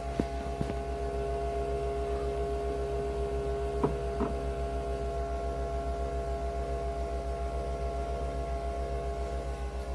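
A steady machine hum made of several held tones over a low, evenly pulsing throb, with two light clicks a little before halfway.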